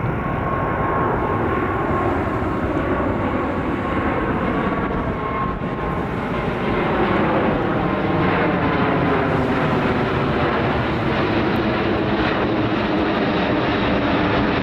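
Airbus A380's four turbofan engines running loud as the airliner flies past, with a thin whine over the noise for the first five seconds and slowly sweeping pitch changes as it moves. The sound grows louder about seven seconds in.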